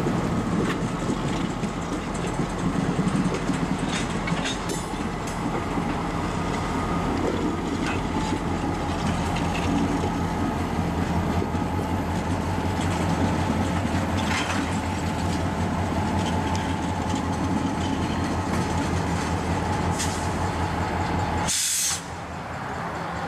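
Diesel locomotive engine running steadily as a slow short-line train with a tank car and bay-window caboose rolls past, with a few scattered clanks from the rolling stock. Near the end a brief hiss comes as the sound abruptly drops.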